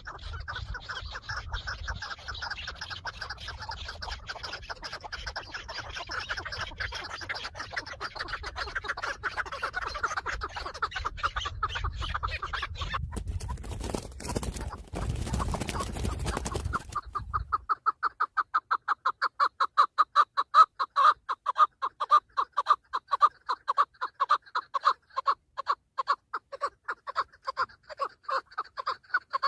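Chukar partridge calling in a fast, even run of clucking notes, several a second. In the first half it sits over a low rumble with a brief burst of rustling noise. From about two-thirds of the way in the calls go on louder and clean against silence.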